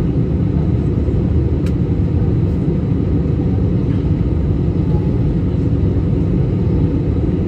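Steady low rumble of engine and airflow noise inside an airliner cabin in flight, on descent, with a faint click a little under two seconds in.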